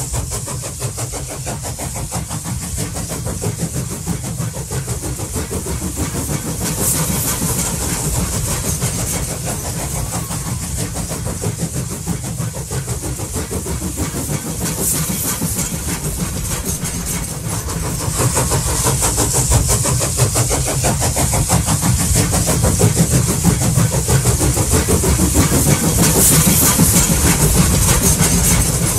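Stock train sound effect: a train running with a steady low rumble and rapid clatter, growing louder in the second half.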